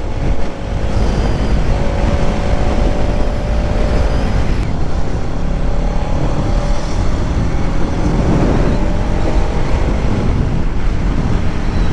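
Bajaj Pulsar NS200's single-cylinder engine running at a steady cruise under a heavy rush of wind noise on the onboard camera's microphone.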